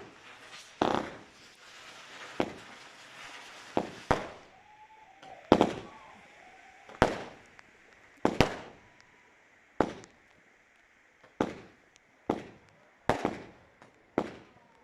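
Fireworks shells bursting overhead: a string of about a dozen sharp bangs, roughly one every second or so, with a hissing crackle trailing the bursts over the first few seconds.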